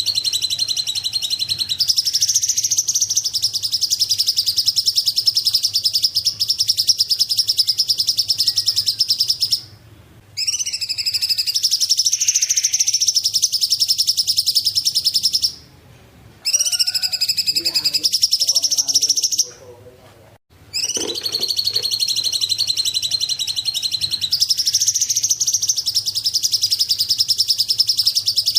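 Cungkok songbird singing a dense, rapid, high-pitched chattering song in long unbroken phrases, with brief pauses about ten, sixteen and twenty seconds in.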